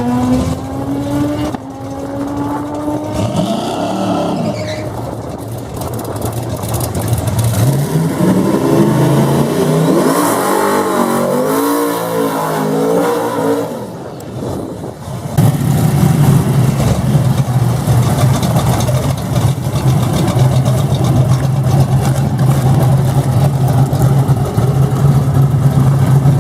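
Car engines at a drag race: one accelerating with rising pitch at the start, an engine revved up and down in the middle, then a loud engine running steadily from about halfway through.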